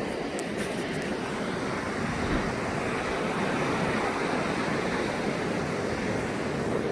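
Rough surf washing onto a beach, a steady rushing that swells a little toward the middle, with wind buffeting the microphone.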